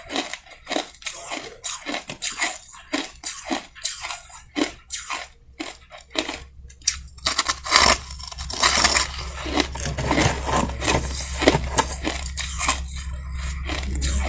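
Soft white crushed ice being crunched between the teeth: quick, irregular crunches, a few a second, with short pauses. A low steady hum comes in about halfway and grows louder toward the end.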